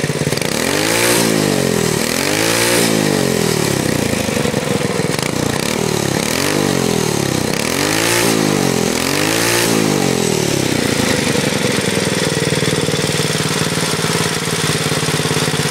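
Single-cylinder GX200-clone engine on a minibike, run without a governor through a homemade high-flow header, revved up and back down about six times, then settling to a steady lower speed for the last few seconds.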